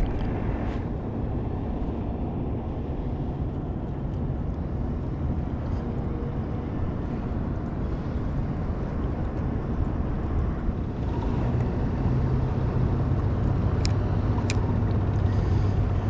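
Boat motor running under a steady low rush of wind and water. About eleven seconds in, its hum grows steadier and a little louder. Two sharp clicks come near the end.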